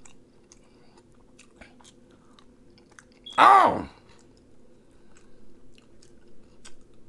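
A man chewing food close to the microphone, with faint wet mouth clicks that grow busier towards the end. About three and a half seconds in he lets out one loud, falling "oh" of appreciation.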